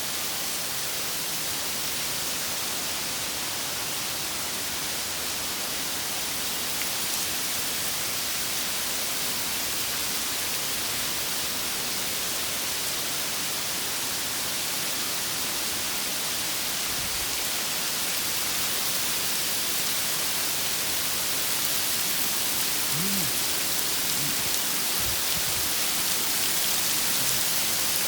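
Heavy rain pouring down in a thunderstorm, a dense steady hiss of drops that grows a little heavier near the end.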